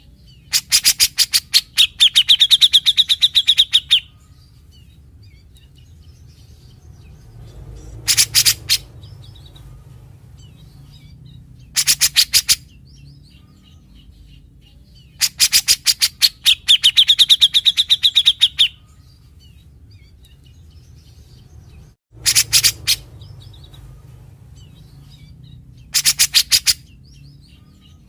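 Grey-cheeked bulbul (cucak jenggot) singing in short bursts of very fast, harsh rattling notes, its typical 'besetan'. Two of the longer phrases carry a clear whistled note through the rattle. There are six bursts, with pauses of a few seconds between them.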